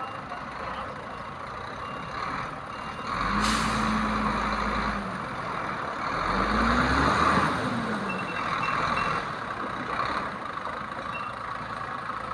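Heavy truck working while loads are lifted: a sudden hiss of air about three seconds in over a steady engine note, then the engine pitch rises and falls again around seven seconds in.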